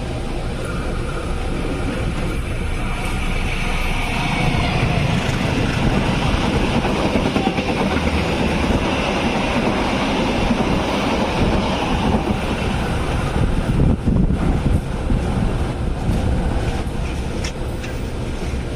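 Passenger train running on the rails: a steady rumble and rattle of wheels and carriage, with a faint high whine from about three seconds in that fades out around twelve seconds.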